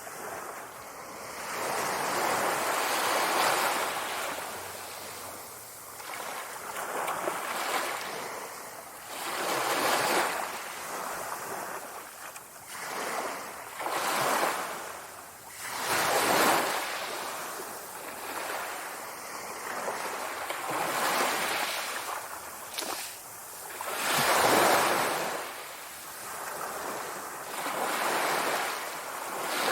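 Sea waves breaking and washing in, swelling and falling in surges every few seconds.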